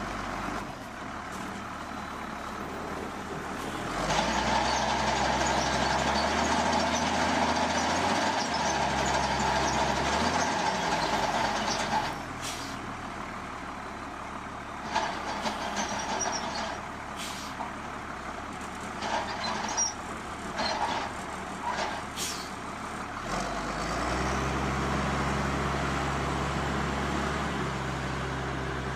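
Heavy machine engine running, its note stepping up and down as the load changes, with scattered short clanks and clicks in the middle.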